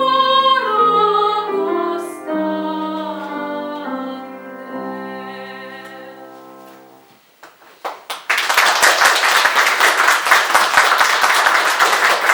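The closing notes of a classical song for voice and piano, with the last piano chords dying away. A few claps follow, then the audience breaks into steady applause about eight seconds in.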